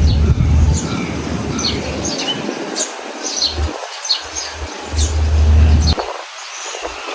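Birds chirping, many short high calls, over a steady rushing background, with bursts of low rumble at the start and again about five seconds in.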